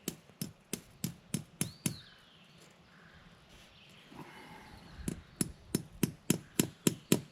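Hammer tapping a fence staple to pin barbed wire, about three blows a second. The blows stop about two seconds in and start again about three seconds later.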